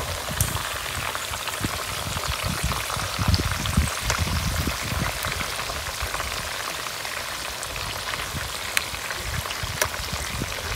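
Chicken and potatoes frying in hot oil and juices in an electric skillet, a steady sizzle with small crackles and pops throughout.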